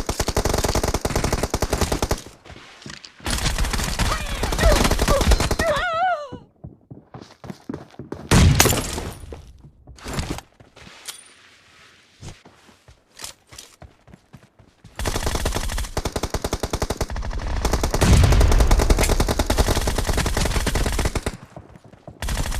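Automatic gunfire from a shooter video game: long bursts of rapid shots near the start and again through the second half, with scattered single shots and short bursts in between.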